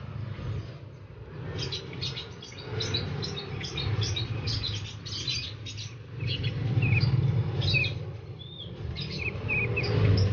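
Caged songbirds chirping and calling, many short high calls and quick slurred notes overlapping, over a low steady hum.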